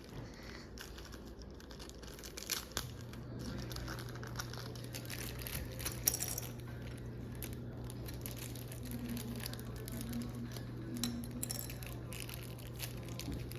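Handling of plastic model-airplane parts and their packaging: scattered clicks, taps and crinkling rustles. A steady low hum comes in about three seconds in.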